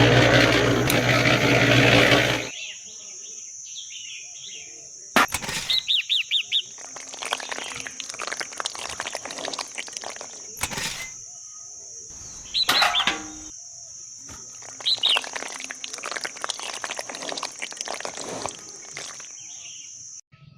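Birds chirping in short repeated bursts over a steady high-pitched whine, with a few sharp knocks. A loud, rumbling noise cuts off about two and a half seconds in.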